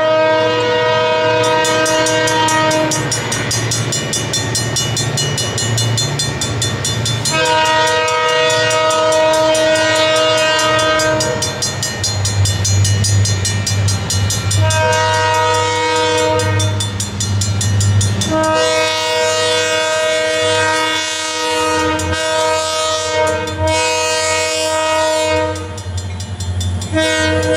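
Freight train's diesel locomotives sounding a multi-tone air horn chord in four long blasts, with pauses between, over the steady low rumble of the engines.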